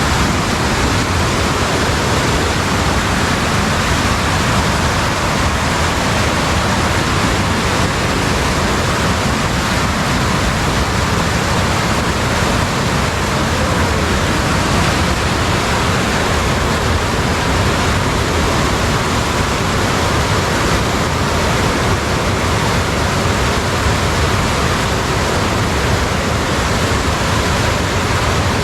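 Loud, steady rush of fast-flowing water, an unbroken even noise with no change.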